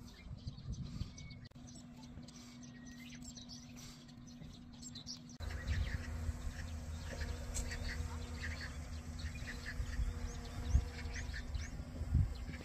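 Small birds chirping and calling in many short notes, over a low rumble of wind on the microphone; the sound jumps louder about five seconds in.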